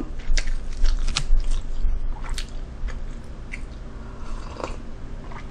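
Close-miked chewing and biting of food, with many small wet clicks and crunches, busiest in the first couple of seconds and then sparser, over a low steady hum.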